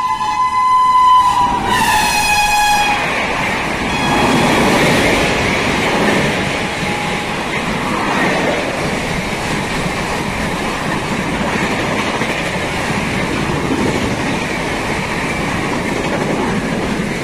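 Express train running through the station at speed. The locomotive's horn sounds one long blast that drops in pitch as the locomotive goes by, about two seconds in, and stops. Then the coaches pass with a steady rumble of wheels on the rails.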